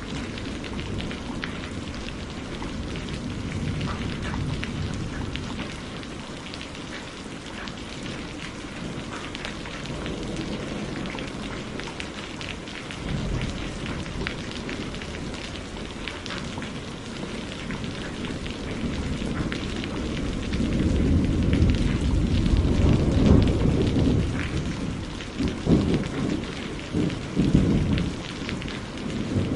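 Steady rain hissing and pattering on a surface, with rolling thunder that rumbles up about two-thirds of the way in and swells in a few louder peals near the end.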